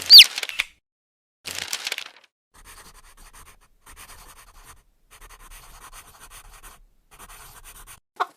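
A chick's single high peep, falling in pitch, right at the start, followed by a short rustling noise and then faint, steady scratching.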